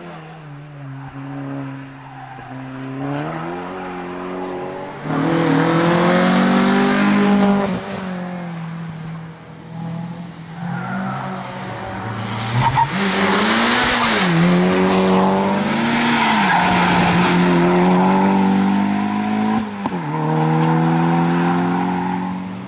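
Volkswagen Golf hatchback's engine revving hard and dropping back several times as the car accelerates and brakes through tight tyre chicanes, with tyres squealing in the turns. The loudest stretches come about five seconds in and again from about twelve seconds.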